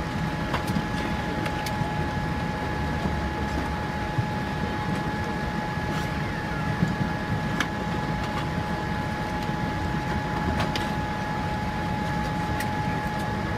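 Steady Boeing 787-8 airliner cabin noise: a low rumble of air and machinery with a steady two-tone whine over it, and a few small clicks.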